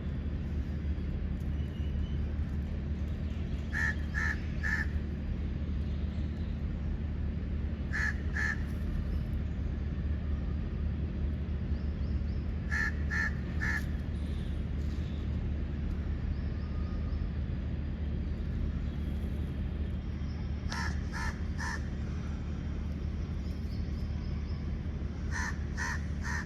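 A bird calling in short groups of two to four quick harsh notes, five times over, against a steady low background rumble.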